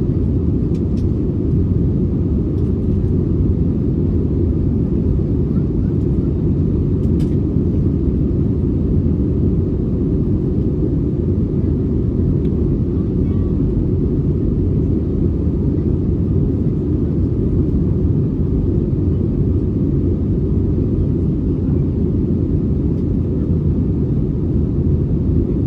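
Steady low rumble of jet aircraft engines, unchanging in pitch and level.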